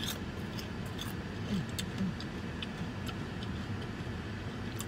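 Small irregular crunching clicks of chewing on a fried cheese rangoon, with two short hummed sounds about one and a half and two seconds in, over the steady low hum of a parked car's air conditioning.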